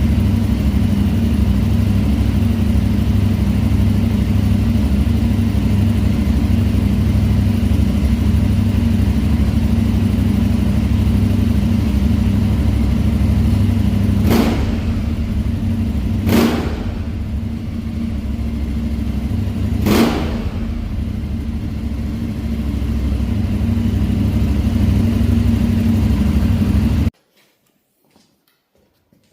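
Aprilia Tuareg 660's parallel-twin engine running steadily through a Zard de-cat pipe and slip-on exhaust. Three short sharp cracks come partway through, and the sound cuts off abruptly near the end.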